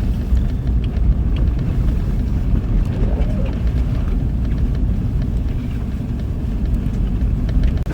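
Steady low rumble of a vehicle driving, with a few faint ticks above it.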